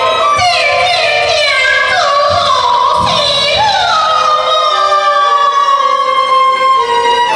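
Teochew opera singing with accompaniment: a high voice slides down through several falling notes, then holds one long note.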